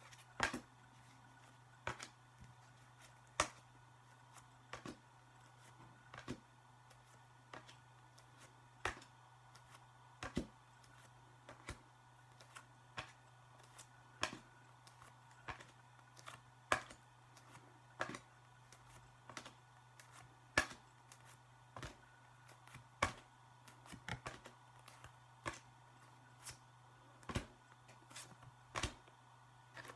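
Faint, sharp clicks and taps at a fairly even pace, roughly one every second or so, over a low steady hum.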